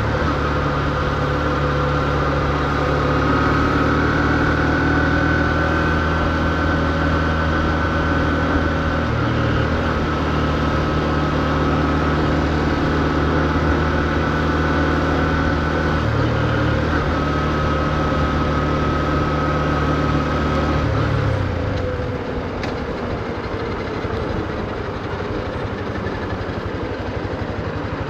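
Honda CB125F's air-cooled single-cylinder 125 cc engine running at steady low revs with an even, unchanging note. About three quarters of the way through, the engine note drops away, leaving a lower, even street noise.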